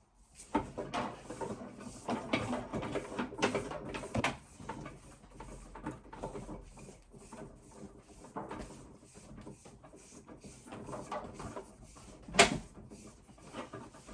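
Handling noises: a length of Cat6 cable being pulled and shuffled about, rustling and rubbing, with scattered small knocks and one sharp knock near the end.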